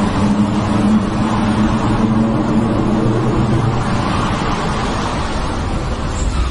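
Motor vehicle driving: a steady low engine hum over road noise, the hum fading a little after about four seconds.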